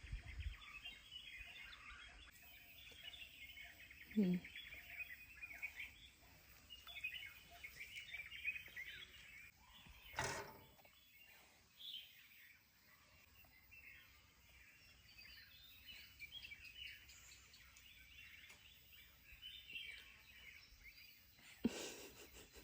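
Birds chirping and trilling softly, with two short thumps, one about ten seconds in and one near the end.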